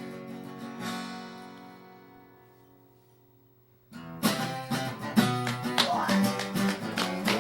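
Acoustic guitar: a chord rings out and fades away over a few seconds, then strummed chords start about four seconds in and keep going in a steady rhythm.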